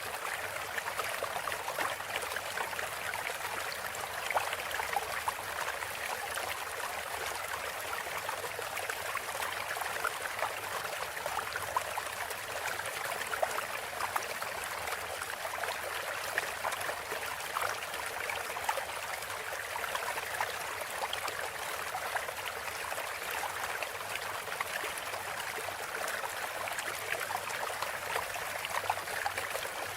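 Running water trickling steadily, a stream-like splashing with fine crackle throughout.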